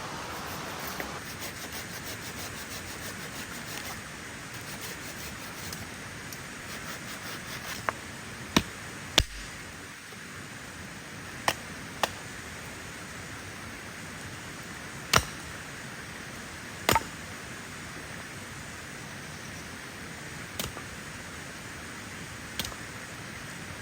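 Steady hiss of rain falling, broken by about nine sharp, short knocks or cracks at irregular intervals through the second half.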